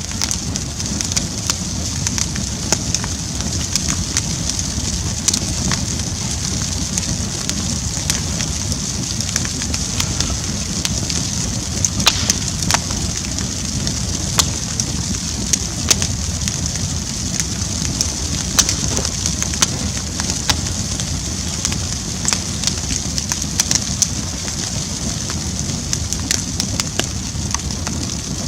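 Campfire burning: a steady low rush of flame with frequent sharp crackles and pops scattered irregularly throughout.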